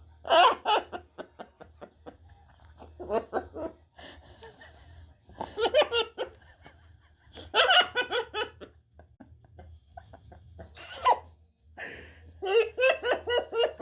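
Laughter in several separate bouts of rapid, pitched ha-ha pulses, the last bout near the end the longest.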